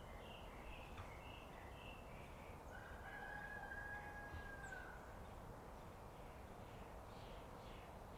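A rooster crows once, a single long, even call lasting about two seconds and falling off at its end, over small birds chirping repeatedly.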